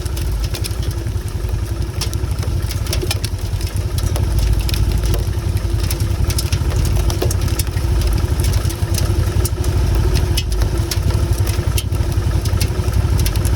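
Motorcycle engine running steadily under a heavy low rumble, with many small sharp ticks scattered throughout.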